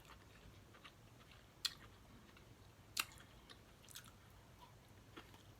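Person eating snow crab legs close to the microphone: faint chewing with three sharp clicks about two, three and four seconds in.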